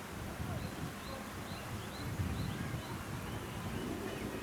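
A small bird chirping over and over, about two short high chirps a second, over a steady low outdoor rumble.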